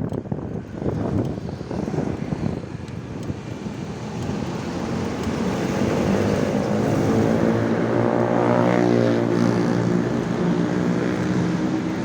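A passing engine grows louder from about five seconds in and is loudest near nine seconds, over the rushing noise of riding.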